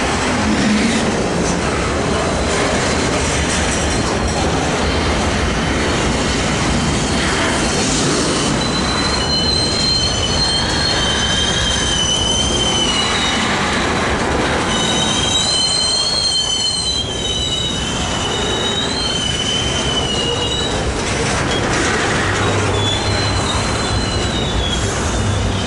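Intermodal freight train's cars rolling past with a steady, loud rumble, their wheels squealing in high, wavering tones that come and go several times, strongest around the middle.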